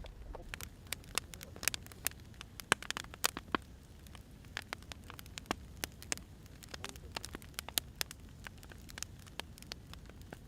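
Firewood burning, with irregular sharp crackles and pops, several a second, over a low steady rumble.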